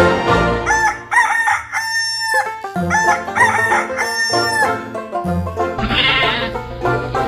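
Rooster crowing twice, each crow a long call that rises, holds and falls, played over background music.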